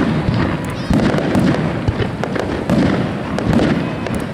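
Aerial fireworks shells bursting in quick succession, a deep boom about once a second with sharp cracks in between, typical of a star-mine barrage.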